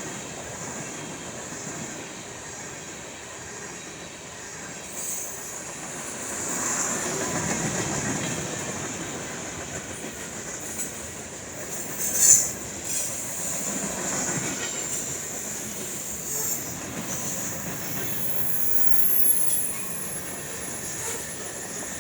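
Freight cars of a Norfolk Southern train rolling past: steel wheels on rail with a steady rumble and a high wheel squeal, and a sharp clank about twelve seconds in.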